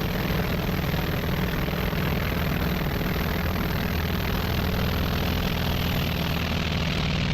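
Aircraft engines running steadily, a constant low drone under an even rushing hiss.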